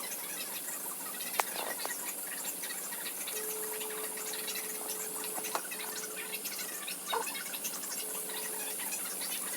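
Pressure cooker letting off pressure: a faint steady hiss, with a thin tone that comes and goes and a few light clicks.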